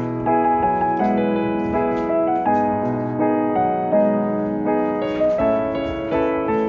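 Background piano music, a gentle melody of notes struck in a steady succession.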